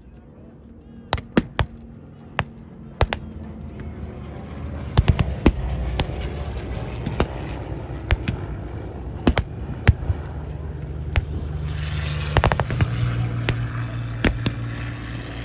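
Irregular blank gunfire from a mock battle: single rifle shots and quick clusters of shots, with a steady engine drone building underneath.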